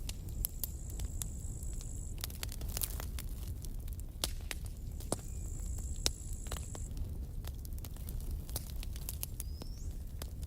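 Campfire burning: wood crackling with scattered sharp pops over a low, steady rumble of flames. A thin, high whistling tone comes and goes twice.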